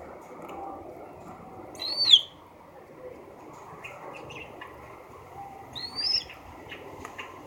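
An eagle giving two short, high-pitched calls about four seconds apart, each sliding up and then down in pitch.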